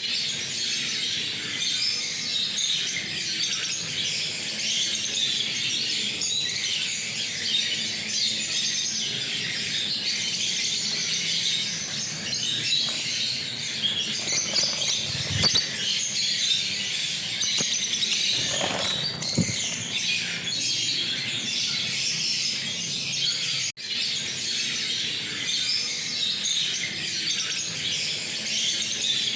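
A flock of lovebirds chattering and shrieking, many high chirps overlapping without pause.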